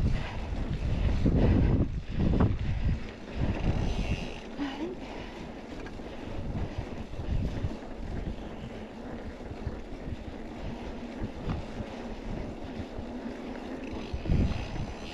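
Wind buffeting the microphone, a gusty low rumble that is strongest in the first few seconds and swells again near the end.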